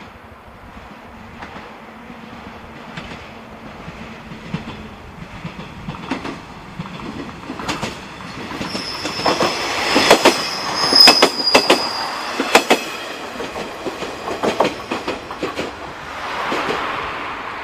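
A train approaching and running past close by, its wheels clattering over the rail joints in an uneven clickety-clack that grows louder to a peak about ten seconds in. A high, steady wheel squeal sounds as it passes.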